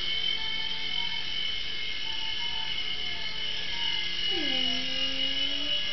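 Small toy RC helicopter's electric motor and rotor blades running with a steady high whine.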